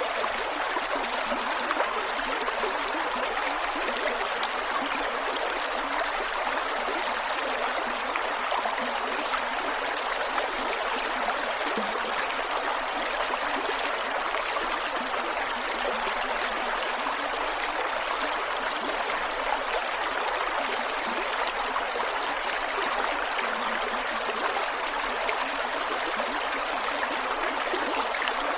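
Creek water flowing over rocks, a steady rushing with fine gurgles and trickles.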